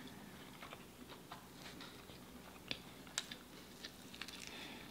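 Faint chewing with scattered small mouth clicks and smacks from eating a burger and a chocolate chip cookie; two sharper clicks come about three seconds in.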